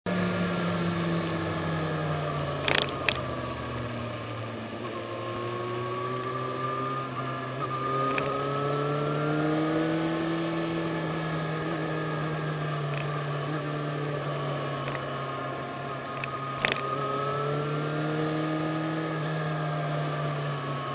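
Yamaha FZ6 Fazer S2's inline-four engine running as the bike is ridden, its pitch rising and falling gently with the throttle, over a steady rushing noise. A few sharp clicks cut in, the loudest about three seconds in and near the end.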